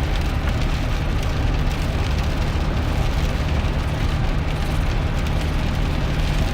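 Steady road and drivetrain rumble heard from inside the cab of a 2001 GMC Sierra pickup driving on wet road, with an even hiss of tyre spray and rain over it.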